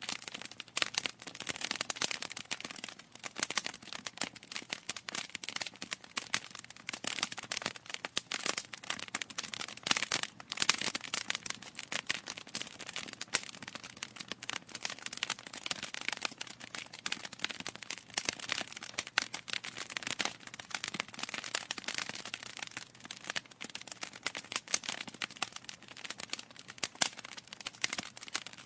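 Wood fire burning in a fireplace, crackling and popping continuously with irregular sharp snaps.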